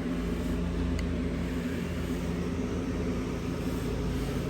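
Steady low machine hum, with one faint click about a second in.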